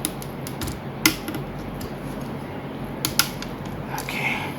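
Sharp clicks and light taps of plastic parts as the tail section of a 1:200 airliner model is pushed onto the fuselage: a sharp click about a second in and two more about three seconds in.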